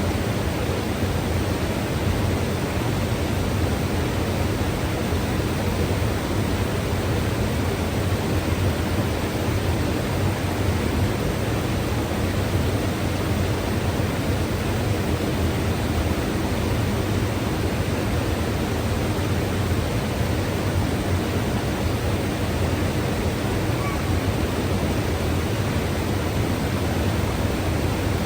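A mountain river rushing steadily, an unbroken wash of flowing water strongest in the low range.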